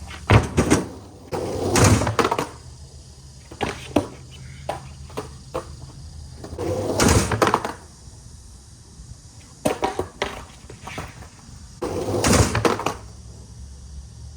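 Skateboard tricks on a park bench, tried repeatedly: wheels rolling on concrete in three short runs about five seconds apart, with sharp clacks of the board's tail, trucks and wheels hitting the bench and the ground.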